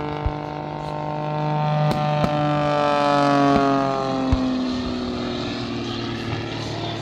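Propeller aircraft passing overhead, its engine note falling steadily in pitch as it goes by, over a steady low hum, with a few sharp pops.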